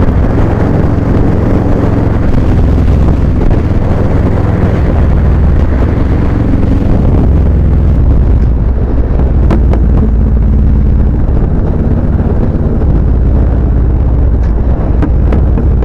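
Motorcycle engine running steadily at riding speed, a loud low rumble with wind buffeting the microphone. The wind hiss eases about halfway through.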